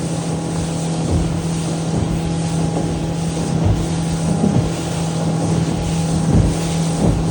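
Boat motor running at a steady pitch over a constant rushing noise of water and wind, with a few low thumps.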